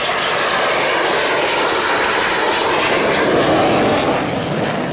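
Panavia Tornado GR4 bomber's twin RB199 turbofan engines as the jet flies past. The noise swells to a peak about three and a half seconds in, then starts to fade.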